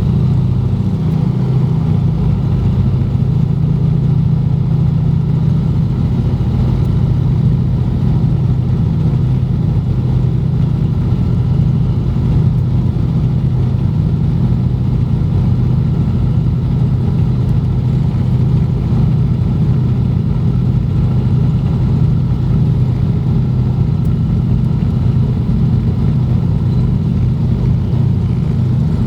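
Junkers Ju 52's three radial engines running with a steady, even drone, heard from inside the cabin.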